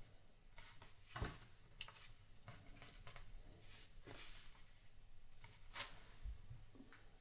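Plastic LEGO pieces being handled and clicked together: scattered sharp clicks, two of them louder about a second in and near six seconds, with soft rustling in between.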